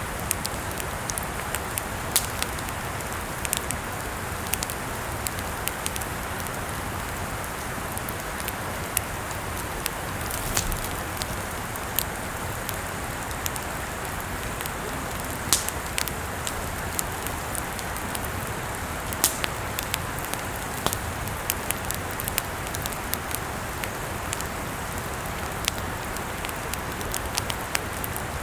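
Wood campfire crackling, with irregular sharp pops and snaps over a steady hiss of burning.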